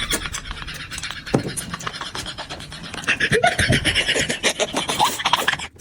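Close-up eating sounds: noodles being slurped and chewed, wet rapid smacking and clicking mouth noises.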